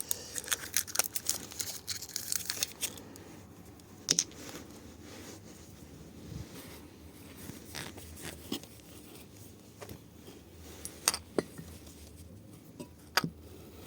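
Parts being handled during engine assembly on a workbench: a few seconds of crinkling packaging and small clicks, then scattered single light knocks and taps of small parts.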